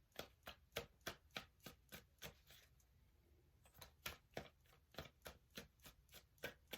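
A deck of tarot cards being shuffled by hand: a quick, even run of soft card clicks, about three a second, with a short pause in the middle.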